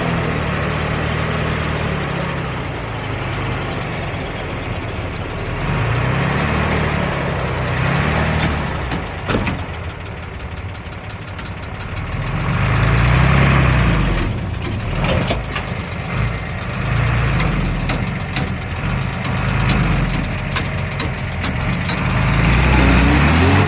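Heavy construction machine's diesel engine working, its note rising and falling several times as the load comes on and off, with a few sharp metallic knocks in the middle.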